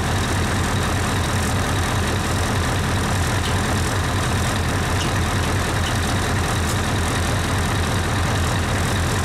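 Diesel engine idling steadily, an even low drone.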